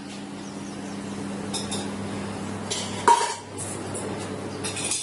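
Dishes and cutlery clattering at a table, with one sharp ringing clink about three seconds in, over a steady low hum.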